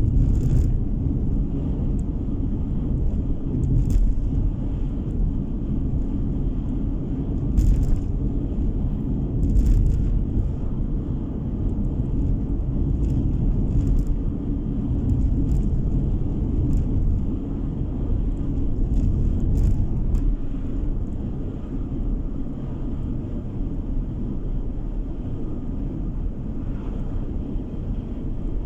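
Car driving along a road, heard from inside: a steady low rumble of tyres and engine, with a few short knocks now and then.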